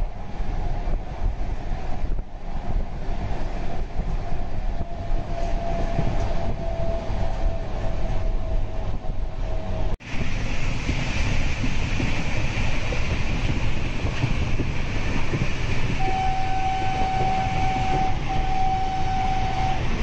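Steady running noise of a moving passenger train heard at an open coach door: wheels on the rails and rushing air. Near the end a train horn sounds two long steady blasts, one straight after the other.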